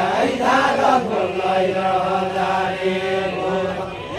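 A group of voices singing a line of a Deuda folk song in chant-like unison. The pitch bends at first, then holds one long steady note for about two seconds before easing off.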